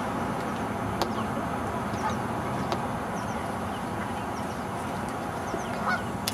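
Ducklings peeping: many short, high, falling peeps scattered over a steady low background rumble, with a couple of faint clicks.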